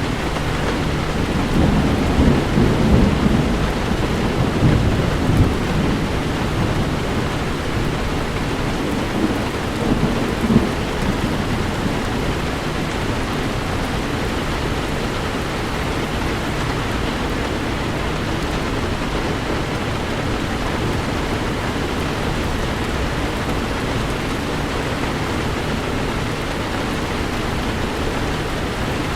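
Heavy rain falling steadily, with low rolls of thunder rumbling through the first several seconds and again about ten seconds in.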